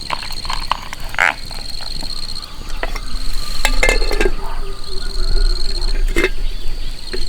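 Frogs croaking in short calls several times, over a steady high-pitched insect trill.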